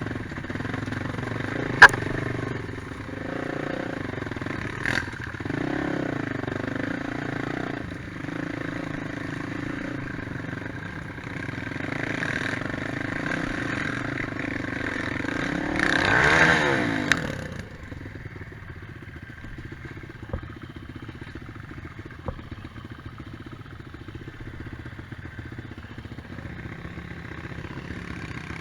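Quad bike engines running on an off-road trail, revving up and down with sharp clattering knocks. About 16 seconds in the engine sound swells to its loudest with a sweeping change in pitch, then drops to a quieter, steadier engine sound.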